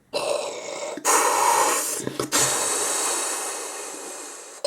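Explosion sound effect: three bursts of rushing, hissing noise, starting suddenly at the start, about a second in and just over two seconds in, the last fading slowly away.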